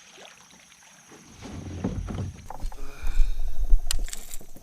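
Knocks and handling noise against a fishing kayak's hull while a hooked bass is landed. It starts quiet, grows loud about a second in, and has a sharp click near the end.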